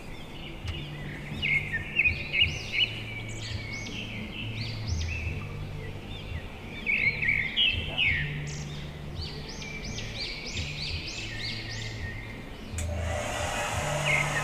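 Small birds chirping in quick clusters of short rising-and-falling notes over a low background hum. About thirteen seconds in, a steady hiss starts suddenly.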